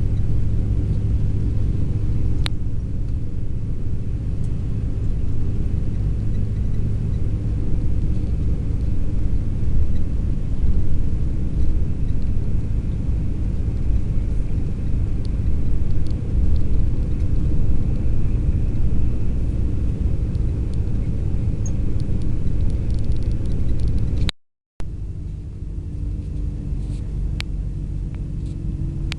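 Steady low engine and road rumble inside a long-distance sleeper coach on the move, with one sharp click about two and a half seconds in. Near the end the sound drops out for a split second, then the rumble carries on a little quieter.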